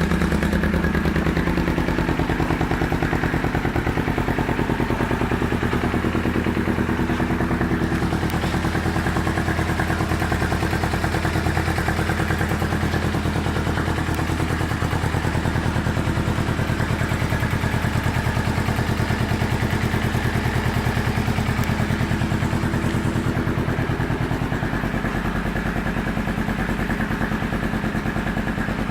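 2009 Kawasaki Ninja 250R's parallel-twin engine idling steadily through an aftermarket exhaust, a fast even pulsing. It gets a little quieter in the last few seconds.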